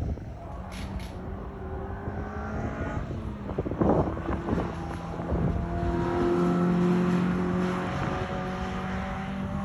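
Suzuki Swift Sport ZC31S engine running through a Suzuki Sport aluminium rear muffler, the revs rising and then held steady, loudest about two-thirds of the way through. A few short clicks sound early on.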